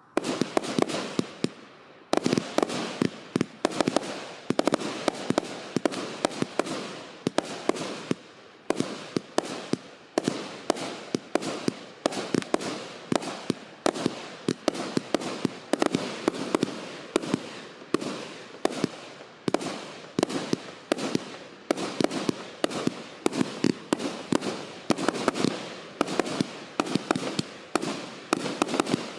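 Consumer fireworks battery (multi-shot cake) firing shot after shot, with sharp bangs and crackling in clusters about once a second.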